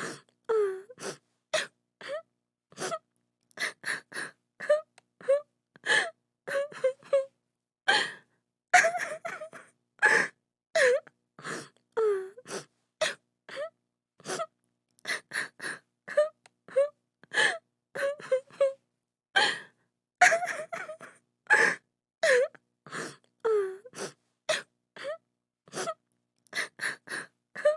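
A woman crying: short sobbing gasps and wails one after another with brief silences between, many of them sliding down in pitch.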